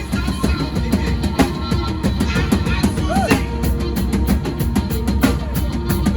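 Live worship band playing instrumentally, the drum kit to the fore with busy kick, snare and cymbal hits over a steady bass.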